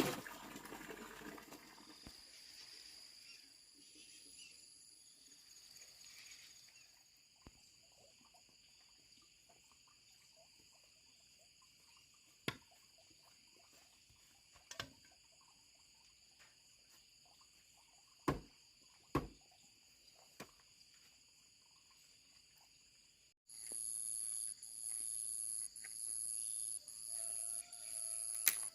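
Faint insect chorus, a steady high shrill, broken by a handful of sharp clicks. About 23 seconds in it switches abruptly to a louder insect chorus that pulses in high chirps about once a second.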